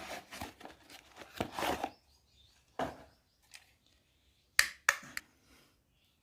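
Rustling handling noise, then a knock and three sharp clicks in quick succession about five seconds in.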